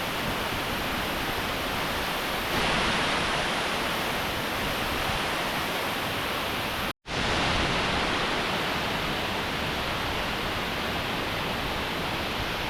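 Steady rush of a waterfall, which gets a little louder about two and a half seconds in and cuts out for an instant about seven seconds in.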